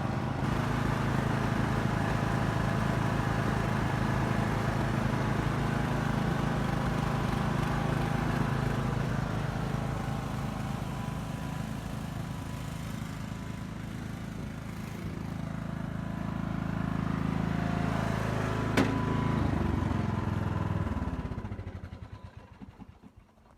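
Small engine of an old rear-engine riding lawn mower running steadily, its speed dipping and picking up again. Near the end it slows and dies away to silence.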